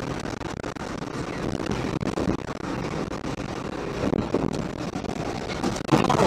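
A moving car's engine and road noise, a rough steady rumble, that gets suddenly louder near the end.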